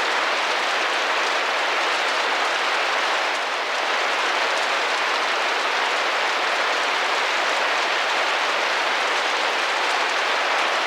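Steady rain drumming against a window pane, a dense, even patter without individual drops standing out.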